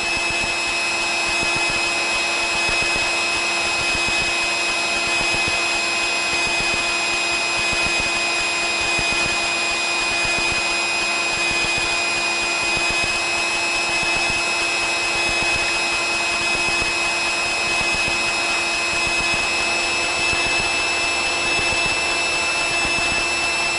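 Steady drone of a Piper Cherokee in flight, heard inside the cabin: engine and airflow noise with a steady high whine running through it.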